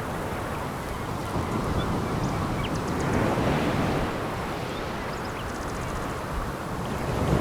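Sea waves breaking and washing over a pebble beach, swelling about three seconds in and again near the end.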